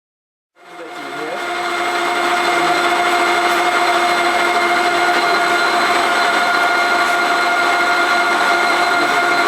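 A twin alpha Stirling engine starting up: after a moment of silence it comes in and builds over about a second and a half to a steady, loud whirring run with a constant whine.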